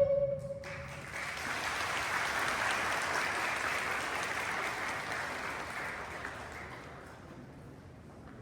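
A held final music note dies out, then an audience applauds, starting about a second in and slowly fading away over the next several seconds.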